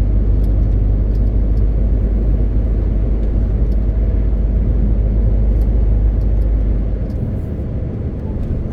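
MAN TGX 18.520 truck driving, its straight-six diesel and road noise making a steady low drone that eases off about seven seconds in.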